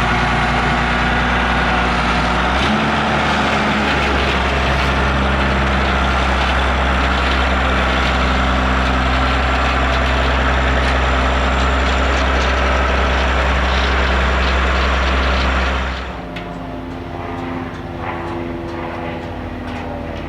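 Heavy machinery engine running hard at high throttle, with a slight change in pitch about three seconds in. About sixteen seconds in it is throttled back and settles to a quieter idle.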